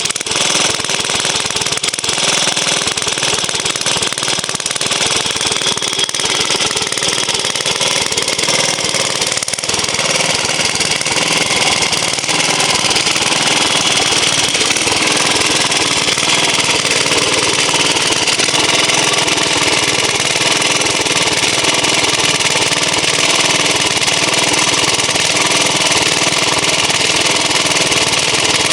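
Vintage J.A.P. engine running steadily and unloaded, its fan belt off so the water pump is not driven, while it warms up; it hums a little. It gets a little louder about twelve seconds in.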